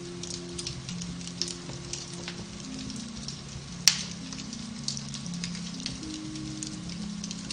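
Beech-wood fire crackling in a fireplace, with scattered small cracks and one loud pop about four seconds in, over soft piano-based music with sustained low notes.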